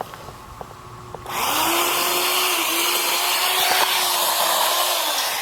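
An electric motor-driven machine starts about a second in and runs with a loud rushing hiss and a steady hum, the hum rising as it spins up and dropping as it begins to wind down near the end.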